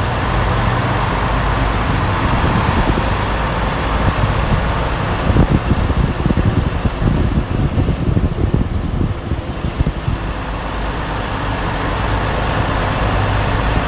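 Semi truck's diesel engine and road noise while driving, steady, with a rougher, uneven rumble for a few seconds in the middle.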